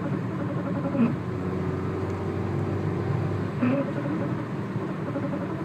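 Peugeot 106 S16's engine running steadily, with two short, sharp squeak-like sounds about a second in and again past the middle. The car has an unidentified noise on deceleration that the owner has not yet traced.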